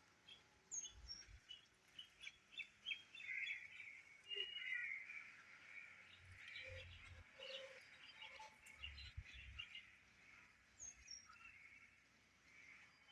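Small birds chirping in quick, short notes, with an occasional high note falling in pitch. A few soft low bumps come in between.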